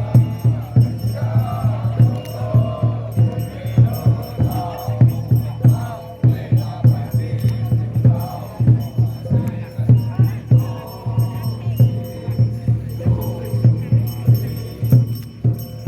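Xiaofa ritual troupe chanting in unison over a steady, rhythmic drumbeat, with small rattling percussion.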